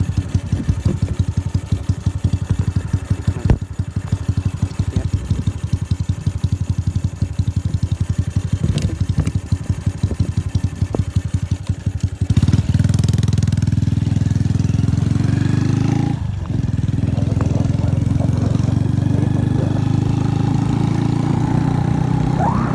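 Freshly assembled motorcycle engine on its first run, idling with a fast, even train of firing pulses. About twelve seconds in it picks up to a louder, higher, steady running speed, with a brief dip a few seconds later.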